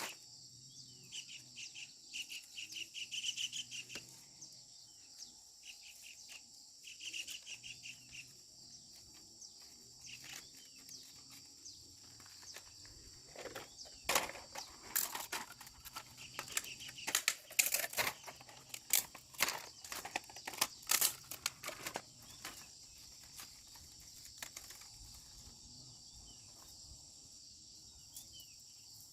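Steady high-pitched insect chorus with short bird chirps in the first few seconds. About halfway through, a run of irregular sharp clicks and knocks lasts several seconds and is the loudest part.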